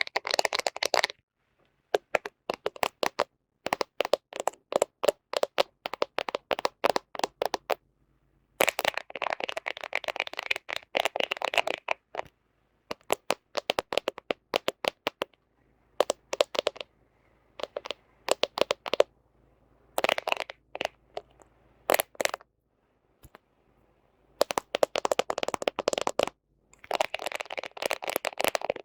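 Fingernails tapping and scratching on a smartphone camera: quick runs of sharp nail taps broken by short pauses, with longer stretches of fast scratching about a third of the way in and again near the end.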